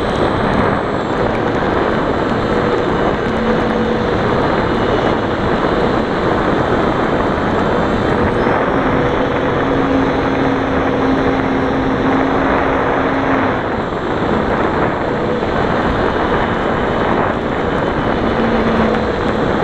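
The Turbo Timber's engine running steadily at speed under a loud, even rush of wind noise, with faint humming tones that shift slightly in pitch now and then.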